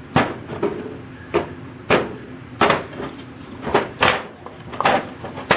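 A run of sharp wooden knocks and clacks, about eight of them at uneven intervals, as the wooden drawers of a machinist's tool chest are handled and checked.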